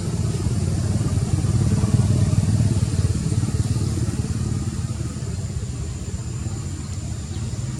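Motorbike engine running steadily with a fast, even pulsing, a little louder about two seconds in.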